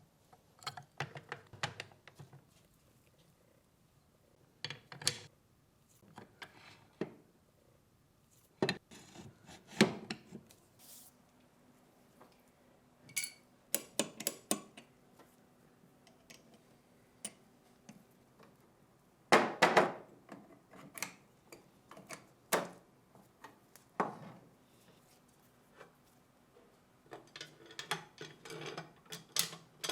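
Metal gun parts of a ShKAS machine gun being handled, giving irregular clicks, clinks and a few knocks, with the loudest knocks about two-thirds of the way through.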